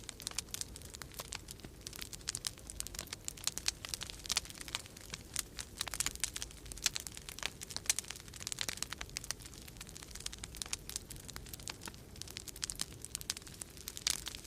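Wood fire crackling in a fireplace, with dense irregular pops and snaps, over a steady low rumble of winter storm wind.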